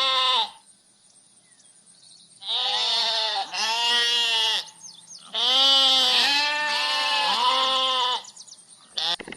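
A farm animal bleating in a series of loud, quavering calls, each about a second long. There are five or six calls with short pauses between them, and the longest, running nearly three seconds, falls in the middle.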